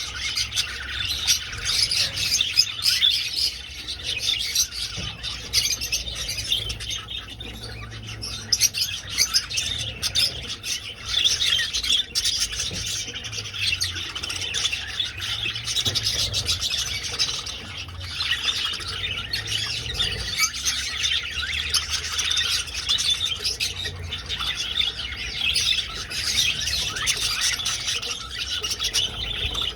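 A flock of budgerigars chattering, with a steady mix of chirps and squawks and no pause.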